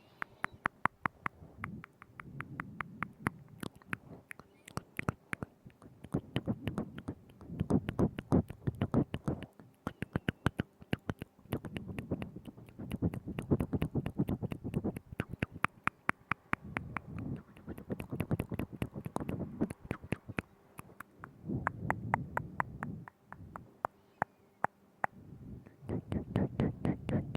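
Wet ASMR mouth sounds made right at a binaural microphone: quick tongue clicks and lip smacks coming in clusters of a second or two, with short pauses between.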